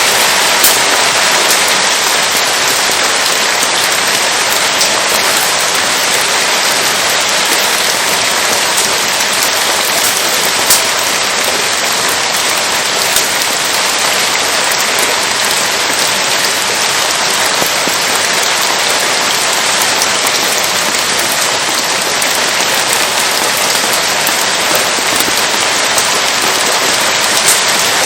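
Steady rain falling, an even hiss, with a few sharp pops standing out above it, the loudest about eleven seconds in.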